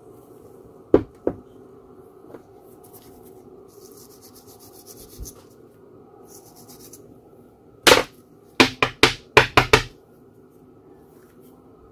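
Hands working on small parts and tools at a bench: two sharp clicks, then scratchy rubbing, then a quick run of about six loud knocks and taps, over a steady low hum.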